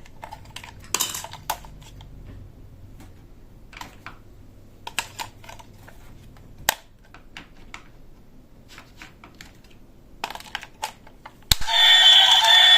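Irregular light clicks and taps of plastic toy pieces and packaging being handled. Near the end a sharp click is followed by a much louder electronic sound with several held tones.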